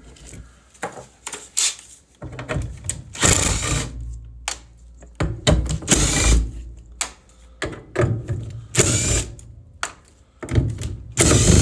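Cordless drill run in several short bursts, backing out the screws that hold a furnace burner bracket, with handling knocks of sheet metal between.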